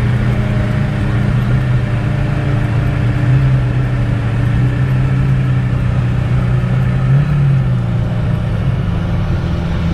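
Tofaş Doğan car at sustained high speed: a steady engine drone over road and wind noise, with a small brief rise in engine pitch about seven seconds in.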